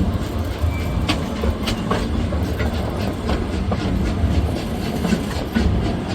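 Heritage train carriages rolling along the track: a steady low rumble with irregular clicks and knocks from the wheels and rail joints.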